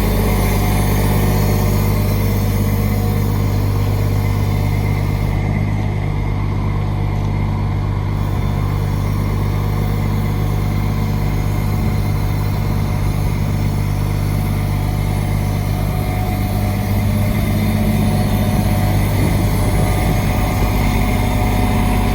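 Grapple truck's engine running steadily, a loud, even low drone that holds without revving up or down.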